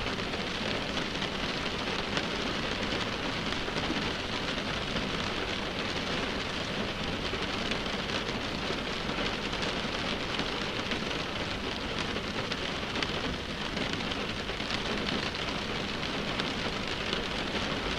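Steady rain falling on a car's windshield, a dense even patter of drops striking the glass.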